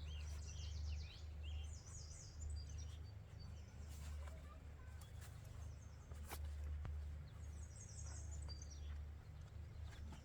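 Small birds chirping in quick high bursts, near the start and again near the end, over a steady low rumble; one sharp click about six seconds in.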